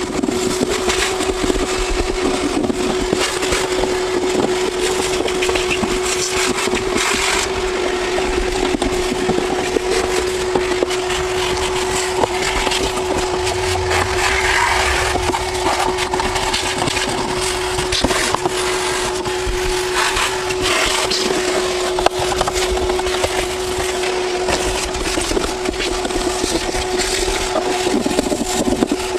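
Crinkling and scraping of sound deadener sheets being handled and pressed down, with many small cracks and knocks, over a steady hum.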